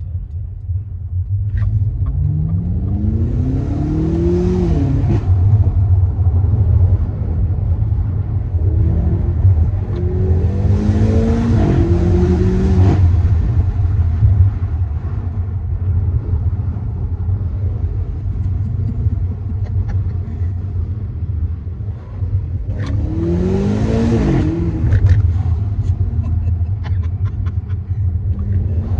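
BMW M8 Competition's twin-turbo V8 pulling hard four times, its note rising through the revs and dropping back between pulls, with a step in pitch at a gear change in the second pull. A heavy road and engine rumble runs underneath throughout. A few sharp crackles follow the third pull.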